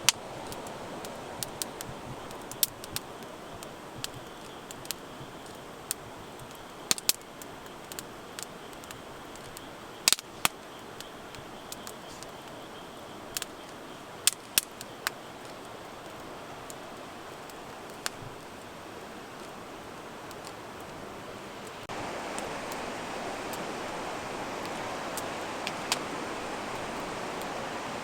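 Steady hiss of rain with scattered sharp taps of drops landing at irregular intervals. About twenty-two seconds in, the rain's hiss gets louder.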